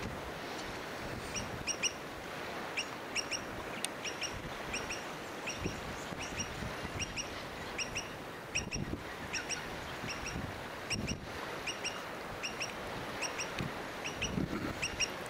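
A bird calling over and over in short, high double chirps, about once or twice a second, over a steady rush of wind and lapping water.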